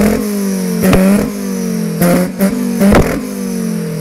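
Ford Focus engine on a Megasquirt ECU, revs falling slowly, with four sharp exhaust bangs about a second apart: backfires from the tune that makes the exhaust shoot flames.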